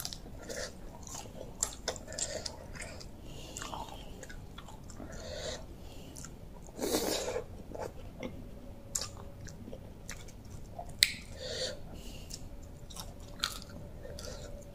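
Close-up mouth sounds of a person chewing and biting a spicy rice-noodle salad with raw vegetables: wet smacking and small clicks. A louder, longer mouth noise comes about seven seconds in, and a sharp click a few seconds later.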